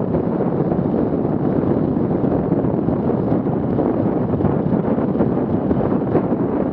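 Wind buffeting the microphone: a steady, loud rumbling rush.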